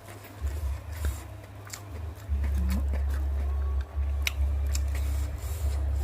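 Close-up crunchy chewing of fried food, likely fried anchovies, tempe and salted fish, with a few sharp crisp clicks. A steady low rumble runs underneath and is loudest from about two seconds in.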